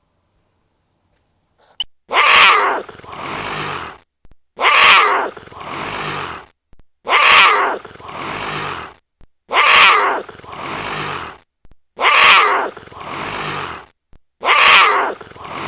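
An animal call repeated six times at an even pace, about every two and a half seconds, starting about two seconds in. Each call is a loud, harsh first part followed by a softer, longer second part.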